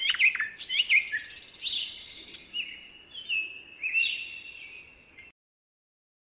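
Songbirds chirping and singing: quick falling chirps and a buzzy high trill in the first two seconds or so, then longer whistled notes. The birdsong cuts off suddenly a little after five seconds in.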